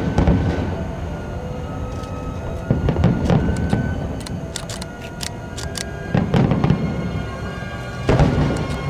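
Aerial fireworks bursting: four deep booms a few seconds apart, with crackling pops between them.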